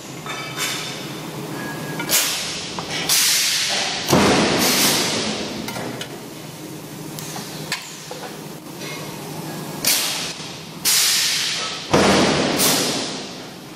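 CNC metal spinning machine at work: a steady machine hum broken by several sudden, loud, noisy bursts that each die away over about a second, every two seconds or so.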